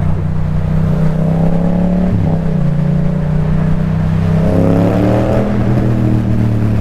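Yamaha MT-07's parallel-twin engine with an Akrapovic titanium exhaust, accelerating on the road. The revs rise twice and drop sharply at each gear change, over a steady engine drone.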